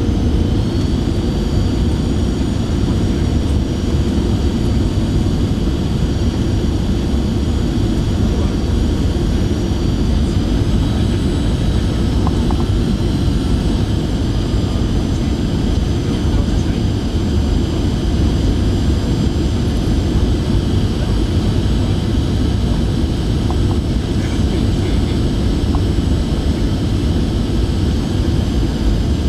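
Jet airliner cabin noise in flight: a steady, deep rush of engine and airflow noise. Faint high whining tones above it shift slightly in pitch a couple of times.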